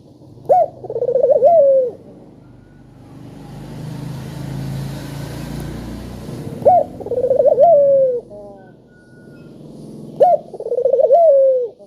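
Puter dove cooing three times: each coo is a sharp rising note followed by a rolling, trilled phrase of about a second. Between the first two coos, a wide rumbling noise swells and fades.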